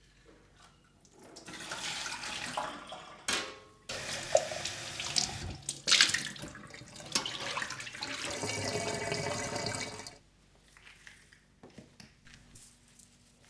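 Water running from a tap into a sink for several seconds, breaking off briefly once, with a few sharp knocks in between.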